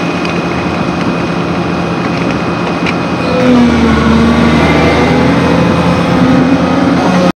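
Volvo excavator's diesel engine and hydraulics working, getting louder about three and a half seconds in as the engine revs up, with a wavering whine over the engine noise.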